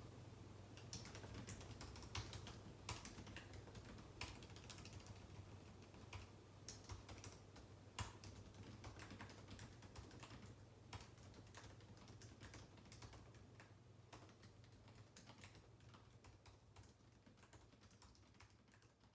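Faint typing on a computer keyboard: irregular keystrokes, some in quick runs with short pauses, over a steady low hum. The sound fades out gradually near the end.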